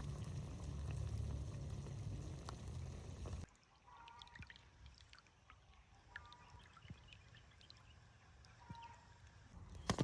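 A steady wash of noise, heavy in the low end, that cuts off suddenly about three and a half seconds in. It is followed by quiet forest ambience with short bird chirps and a sharp click near the end.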